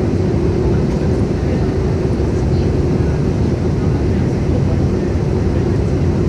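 Steady cabin noise of an Airbus A318 in descent on approach: rumbling airflow and engine noise with a constant droning hum.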